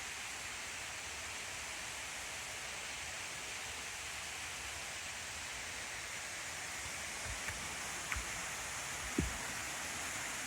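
Waterfall, a steady rush of falling water. A few light knocks come near the end, the last one a little louder.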